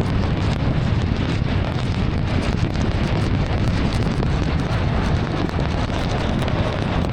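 Steady rumble and hiss of a car driving through heavy rain on a wet road, with wind buffeting the microphone.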